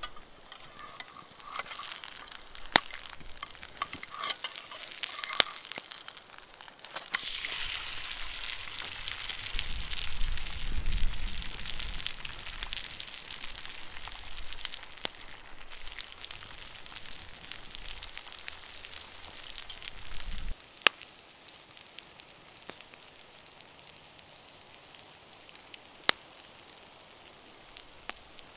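Pancake batter and diced bacon frying in a cast-iron skillet over a wood fire, a steady sizzle with a few sharp clicks. About two-thirds of the way through the sizzling drops away, leaving a quiet background with an occasional click.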